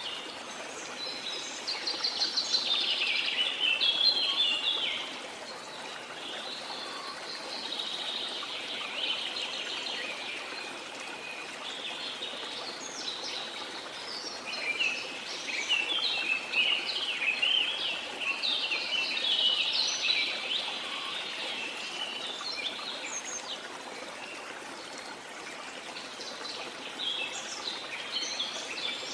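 Several birds singing and chirping in quick, overlapping phrases over the steady rush of flowing stream water; the birdsong comes in busier spells about a second in, mid-way and near the end.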